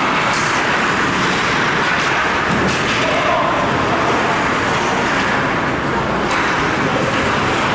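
Steady noisy background of an ice hockey game in play, with a few faint clicks or knocks.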